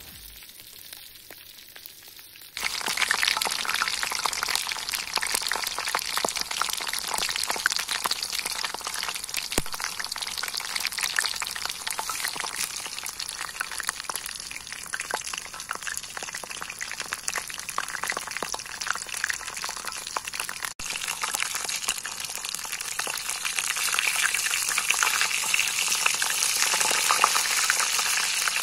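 Food frying in hot oil in a pan, a dense sizzling crackle, as wild bird meat is cooked. It starts suddenly about two and a half seconds in and carries on, with a brief break about twenty seconds in.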